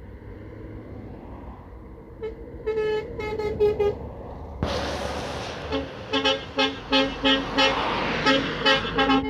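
Trucks sounding their horns in a series of short toots over the low rumble of passing lorry engines. The blasts start a couple of seconds in, and a sudden loud rush of noise about halfway through is followed by rapid toots several a second.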